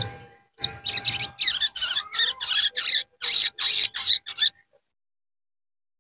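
Sogon bird calling in a rapid string of loud, high chirps and twitters for about four seconds, then cut off abruptly: a lure recording for wild-caught birds.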